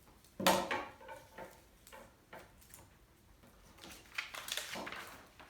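Craft materials handled on a tabletop while cut-out newspaper grass is glued down: a sharp clatter about half a second in, then a stretch of scratchy rubbing, like a glue stick or paper pressed down, around four seconds in.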